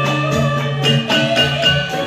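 Javanese gamelan accompaniment for a jathilan dance: metallophones strike a quick melody of bright ringing notes over a held low tone, played through a PA sound system.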